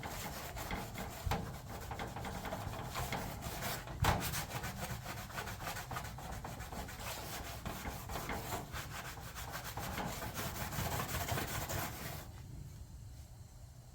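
Green Scotch-Brite scouring pad scrubbing an aluminum race-car body panel in rapid back-and-forth strokes, working tire burns off the panel. There is a single sharp knock about four seconds in, and the scrubbing stops about a second and a half before the end.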